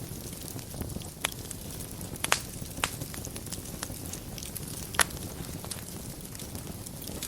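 Wood burning in a fireplace: a steady low rumble of flame with soft crackling and a handful of sharp pops, the loudest about five seconds in.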